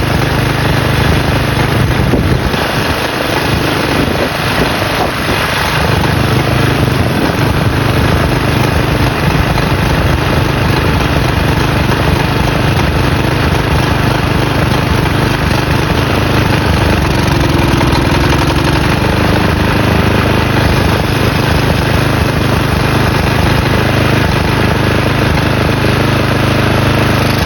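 Briggs & Stratton single-cylinder flathead mower engine running hard and steady while being fed used motor oil through its intake, then cutting out suddenly at the very end as it dies.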